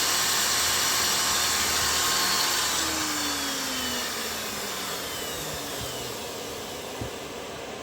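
Electric sharpening grinder running with a steady hiss, then switched off about three seconds in, its motor winding down in a falling hum. A single small click comes near the end.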